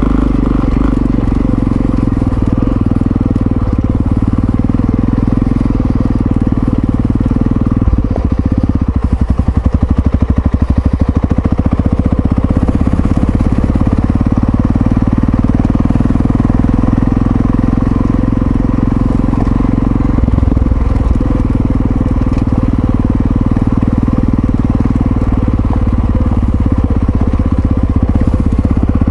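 Yamaha XT660Z Ténéré's single-cylinder four-stroke engine running steadily under way. About eight seconds in, the revs drop and the separate firing pulses come through for a few seconds before the note evens out again.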